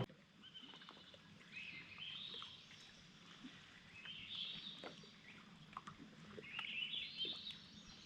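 A songbird singing faintly, short warbling phrases repeated about every two seconds.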